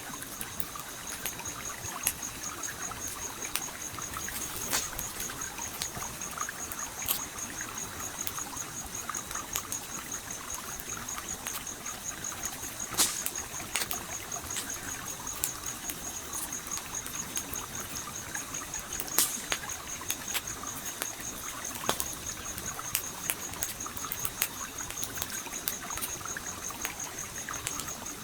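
Campfire crackling with scattered sharp pops, the loudest about halfway through and again about two-thirds in, over a steady flowing stream.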